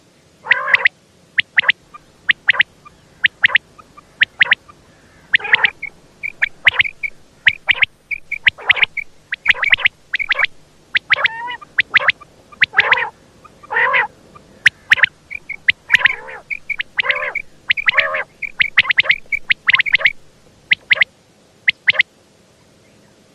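Female common quail calling: an irregular series of short, sharp pips mixed with longer, lower, harsher notes, which stops near the end.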